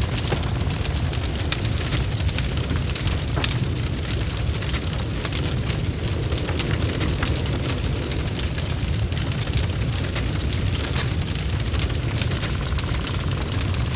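Bonfire burning: a steady low roar of flames under many small crackles and pops of burning wood.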